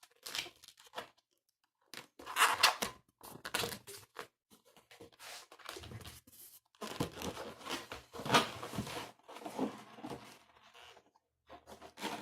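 Latex modelling balloons being twisted and handled, rubbing against each other in irregular bursts while the short ends are tied together.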